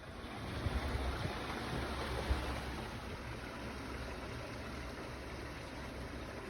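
Water rushing steadily through a canal lock's paddles, a continuous noisy rush over a low rumble that swells over the first second and then holds.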